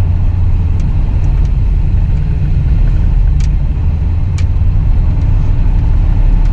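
Truck engine running with a steady low rumble, heard from close by, likely from inside the cab.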